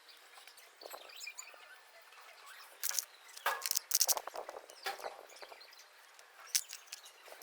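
A few scattered short taps and clicks over faint background noise, the loudest bunched about three to four seconds in and one more near the end.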